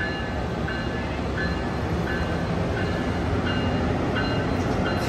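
Amtrak Capitol Corridor train led by a Siemens SC44 Charger diesel-electric locomotive pulling out of the station: a steady rumble of the engine and rolling wheels. A short ringing tone repeats about every two-thirds of a second throughout.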